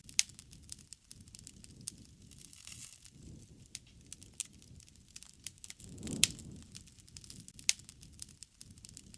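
Wood fire crackling: sharp pops and snaps every second or so, several of them loud, over a low rush of flame that swells twice.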